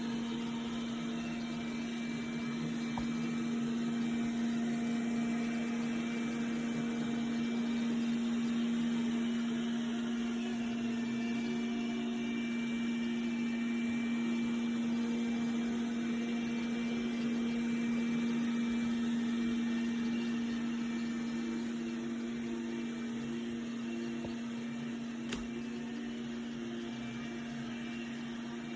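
iRobot Roomba Combo j7+ robot vacuum running: a steady motor hum with whirring noise over it. There is a single faint click about 25 seconds in.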